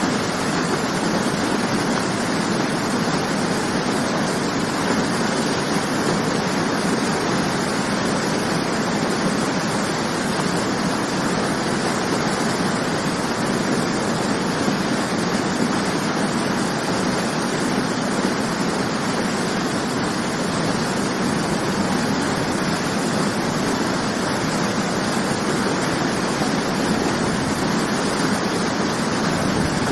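Waterfall: water falling and splashing in a steady, unbroken rush with no change.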